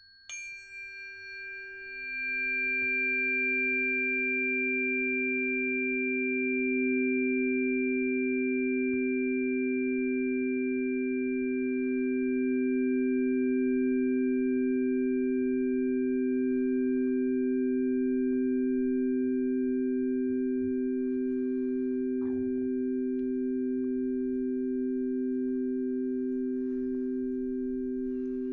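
Singing bowl struck once and then sung around the rim: a brief bright ring, then from about two seconds in a steady, sustained hum of two low tones with a slow pulsing beat and fainter high overtones.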